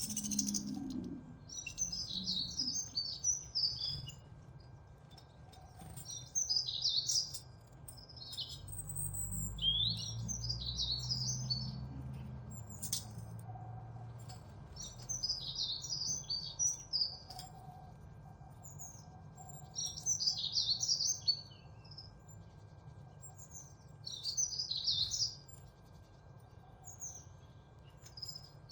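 Birds chirping in short, high-pitched twittering phrases that come about every three to four seconds.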